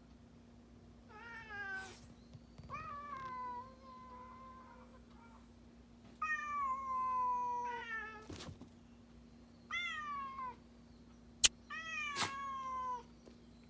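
A cat meowing again and again, about five meows that each fall in pitch, two of them long and drawn out. A single sharp click about two-thirds of the way through.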